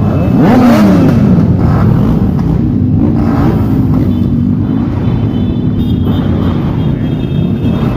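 Motorcycle engines running loudly, with several engine tones overlapping; one revs up and back down sharply about half a second in.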